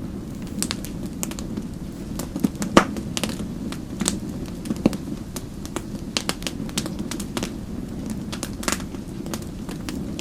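Wood fire in a fireplace crackling, with irregular sharp pops over a steady low rush of the flames. The loudest pop comes about three seconds in.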